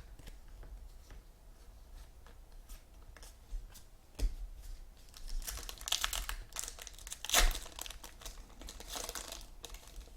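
Trading-card pack wrappers being torn open and crinkled, with light handling of the cards. It is quiet with a few small clicks at first, then crinkling and tearing from about halfway in, loudest a couple of seconds later.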